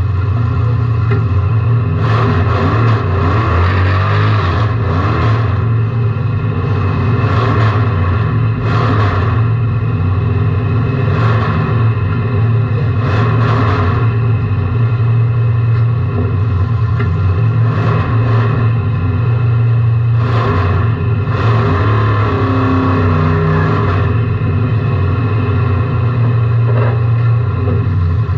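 Car engine running loud and steady, heard from inside the car, with about ten short, loud bursts of noise on top, most of them in the first two-thirds.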